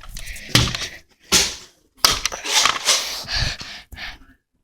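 Irregular bursts of rustling and crunching noise, several loud clusters with short gaps between them, stopping shortly before the end.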